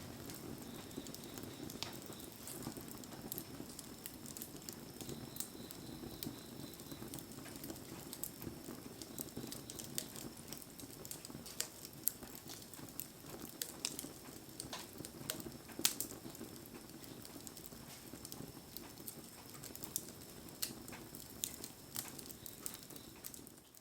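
Wood campfire crackling, with scattered sharp pops and a few louder ones, over a steady patter of rain.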